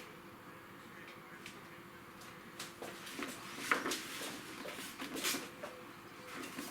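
Vinyl wheel sticker being peeled up off a motorcycle rim and pressed back down by hand: a run of crackles, clicks and rustles over a faint steady hum, starting about two and a half seconds in.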